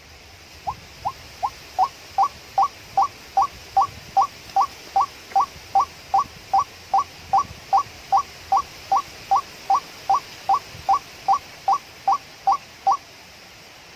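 White-breasted waterhen (ruak-ruak) calling: a monotonous series of about thirty identical short rising notes, roughly two and a half a second. It starts a little softer, then holds steady and stops near the end.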